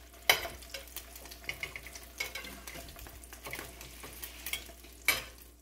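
Egg-and-milk-soaked bread slices frying in hot butter and coconut oil in a skillet, sizzling with scattered crackles and pops. A sharp knock about a third of a second in is the loudest sound, with another near the end.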